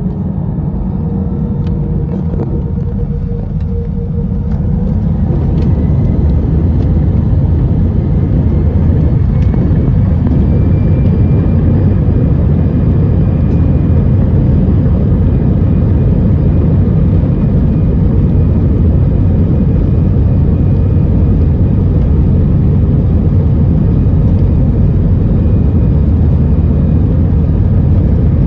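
Airbus A319 jet engines spooling up to take-off thrust, heard inside the cabin. A rising whine rides over a low rumble that grows louder over the first several seconds, then settles into a steady loud rumble through the take-off roll.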